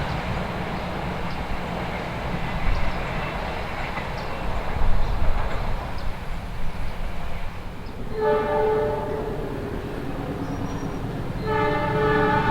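Train running past with a steady rumble of wheels on rail. Its locomotive horn sounds a multi-note chord in a few broken blasts about eight seconds in, then a long blast starting near the end.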